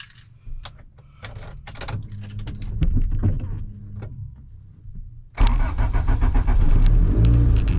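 Clicks and knocks from a camera being mounted in a car. About five seconds in, the turbocharged Honda Civic's engine starts and settles into a loud, steady idle.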